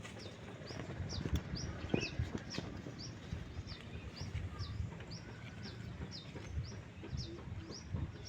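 A small bird chirping over and over, short high notes about two a second, with irregular low knocks and rustling underneath.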